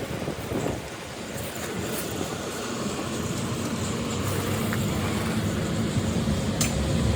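An engine running steadily with a low hum that grows louder near the end, over a background of wind-like noise.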